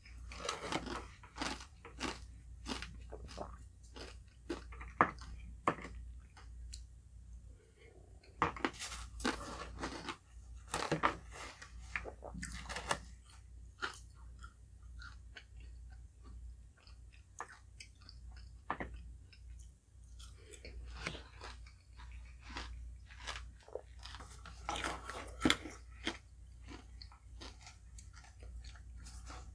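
Close-miked chewing and crunching of a halo-halo dessert: mouthfuls of shaved ice, ube ice cream and tapioca pearls. The crackly crunching comes in bunches, with quieter chewing in between.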